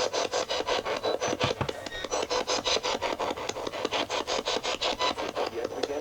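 Spirit box sweeping rapidly through radio stations: choppy static pulsing about six times a second, with brief scraps of broadcast sound between the bursts.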